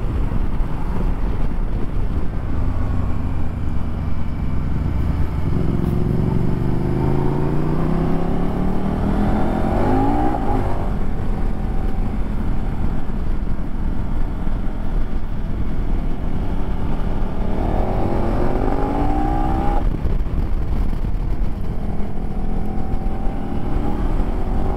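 KTM Super Adventure S V-twin engine heard from the rider's helmet over heavy wind rush. It accelerates with rising pitch about six to ten seconds in, again around eighteen to twenty seconds in, and once more near the end.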